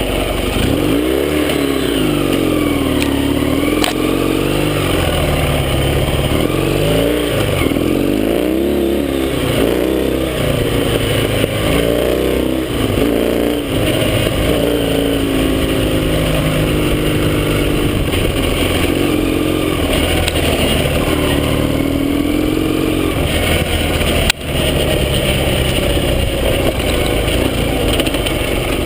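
Yamaha XS650 air-cooled 650 cc parallel-twin engine on a dirt bike conversion, being ridden. Its pitch rises and falls again and again through the first half as the rider opens and closes the throttle, then holds steadier while cruising.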